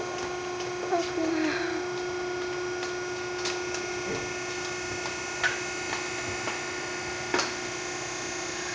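Steady machine hum with a few scattered sharp clicks and knocks, the loudest about a second in and again near the end, and a short squeak about a second in.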